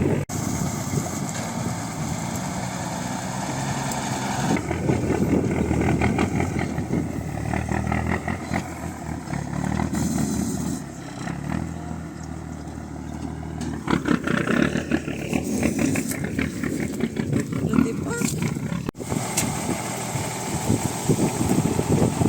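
Heavy 6x6 army truck's engine running and revving, with several sudden breaks in the sound.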